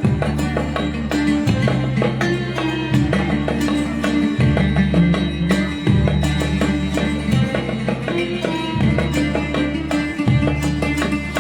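Libyan malouf band playing an instrumental passage: plucked strings and drum strokes over a deep sustained bass line that moves to a new note about every one and a half seconds.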